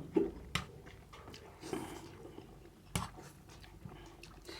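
People chewing and eating spicy black bean noodles, with a few sharp clicks, most likely from cutlery or plates, scattered through.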